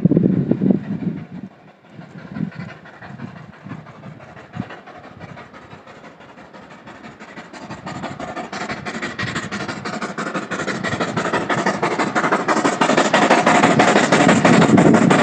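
Train running through a station, rising in loudness over the second half with a steady clickety-clack of wheels over the rail joints. A low rumble at the start fades out within about two seconds.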